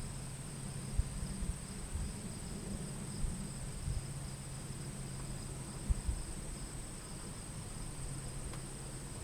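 Insects, crickets or the like, trilling steadily at a high pitch, with a faint low steady rumble and a few soft thumps underneath.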